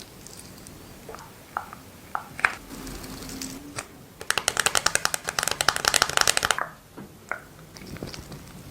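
Skin-care products being handled: a few scattered light clicks and taps, then about four seconds in a fast run of sharp clicking taps, roughly ten a second, lasting about two seconds before stopping abruptly.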